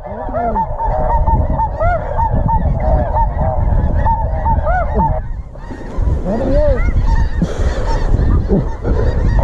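A flock of snow geese calling, many high yelping honks overlapping, over a steady low rumble of wind on the microphone. The calling breaks off briefly about five seconds in, then picks up again.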